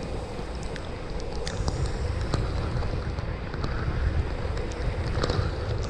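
Wind buffeting the microphone over steady heavy rain during a bike ride, with scattered sharp ticks.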